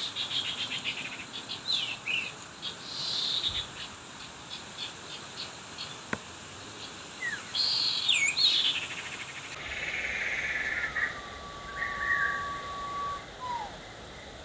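Small birds chirping and calling: quick runs of chirps and short downward-sliding whistle notes, then near the end one long level whistle that slides down as it stops.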